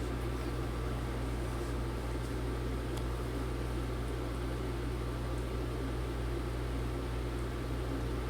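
Steady low hum with a faint hiss of room background noise, and a faint tick about three seconds in.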